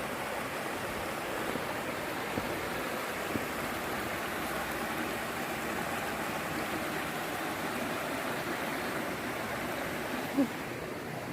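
Steady rushing of river water flowing. There are a couple of faint ticks a few seconds in and one brief, louder pitched blip near the end.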